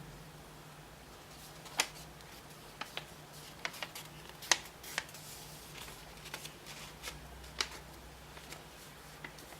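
Sheet of origami paper being folded and creased by hand: irregular crisp snaps and crinkles as the folds are pressed, the loudest about four and a half seconds in.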